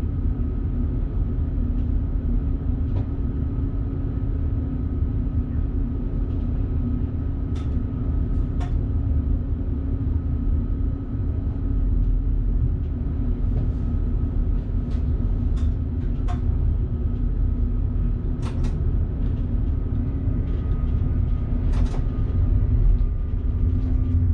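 Electric train running, heard from inside the driver's cab: a steady low rumble with a constant hum, and a few scattered sharp clicks.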